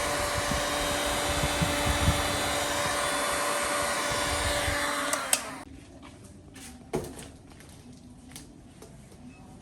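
Handheld electric blower, such as the heat gun used to push epoxy into ocean-wave patterns, running steadily with a motor hum, then switched off about five seconds in with a click. A light knock follows a little later.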